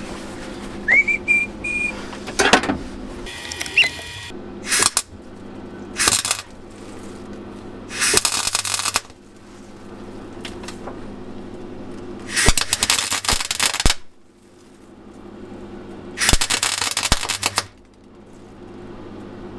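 Electric welder laying short welds on the car's boot floor: about six separate bursts of crackling arc, the later ones each over a second long, over a steady low hum. A brief rising whistle sounds about a second in.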